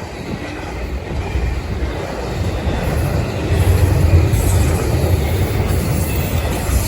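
Freight train rolling past, a heavy low rumble of cars on the rails that builds and then holds, with faint wheel squeal in the second half.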